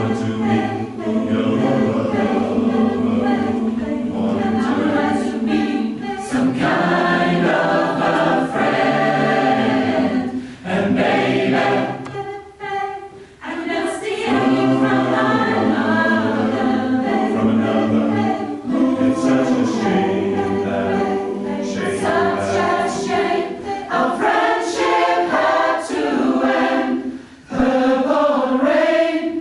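Choir singing, largely unaccompanied, in sustained chords sung as phrases, with short breaths between them about midway and again near the end.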